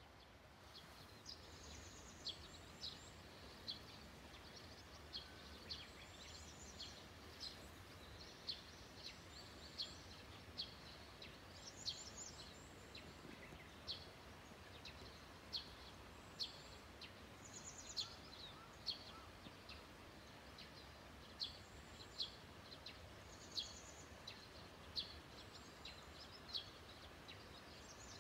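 Wild birds calling at dawn: a steady series of short, high chirps, about one or two a second, with now and then a fainter, higher trill.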